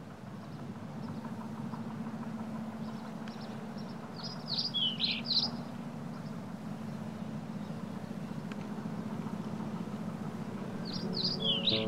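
Songbirds chirping and singing over a steady low hum, with a run of quick high chirps about four seconds in and more near the end. Music begins right at the close.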